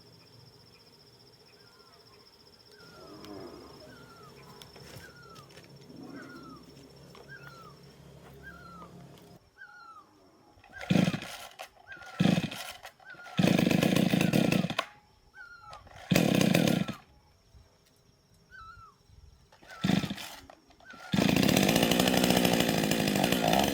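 Chainsaw with a newly replaced carburetor, started and blipped in five short throttle bursts with pauses between, then held at high revs for the last couple of seconds. Before it starts, a faint, short chirp repeats about once a second.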